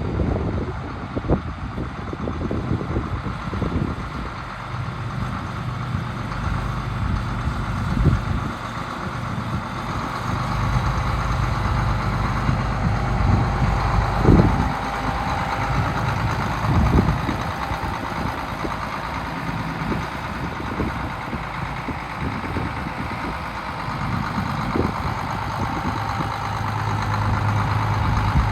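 Case 2390 tractor's diesel engine idling steadily, with a few dull thumps.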